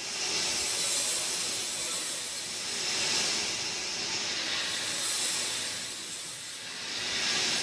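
Steady rain: an even hiss that swells and eases every two to three seconds.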